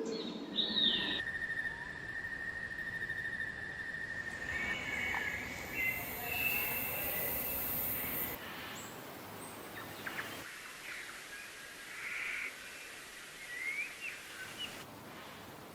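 Outdoor ambience with scattered short bird calls and chirps, and a steady high tone held for about three seconds early on; the background changes abruptly several times, as from spliced recordings.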